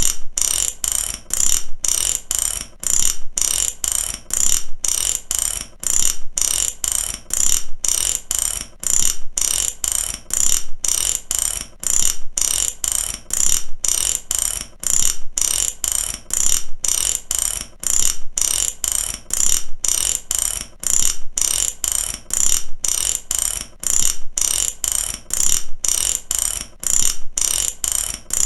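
Ratchet clicking rapidly in repeated strokes, each run of clicks broken off by a short gap before the next.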